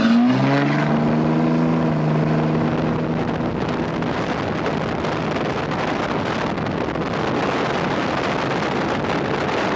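A truck engine revved up and held at a steady high pitch, fading after a few seconds under a loud steady rushing noise.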